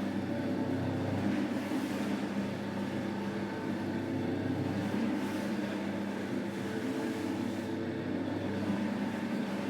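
Steady motor hum of rug-cleaning machinery running without a break, over a noisy hiss.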